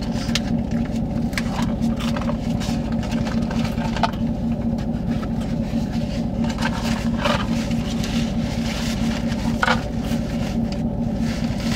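A vehicle's engine idling, heard inside the truck's cab as a steady low hum with a constant drone, with a few faint clicks and rustles over it.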